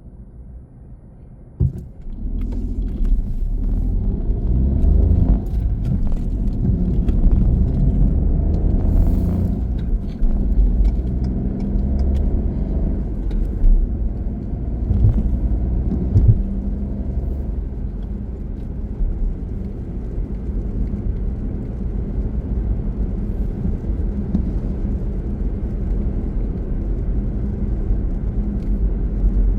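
Car driving, a steady low rumble of engine and road noise that comes up sharply about two seconds in after a quieter start, with a short click just before.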